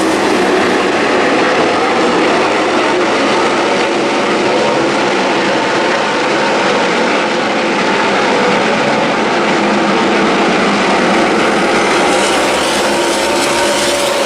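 NASCAR Camping World Truck Series race trucks' V8 engines running on track, a loud, steady, dense din of many engines together.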